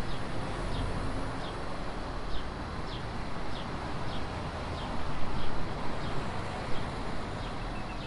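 Morning ambience: a small bird chirping over and over, each a short falling note, over a steady low rumble of background noise.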